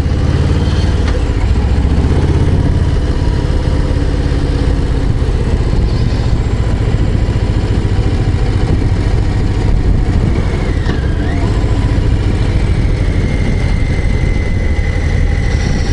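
Harley-Davidson Low Rider ST's Milwaukee-Eight 117 V-twin engine running steadily while the motorcycle is ridden, its low exhaust note loud and even.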